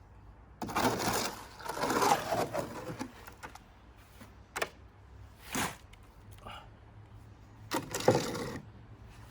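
Wet cement being stirred and scraped in a mixing container. There are three gritty bursts: a long one about a second in, a short one in the middle and another near the end.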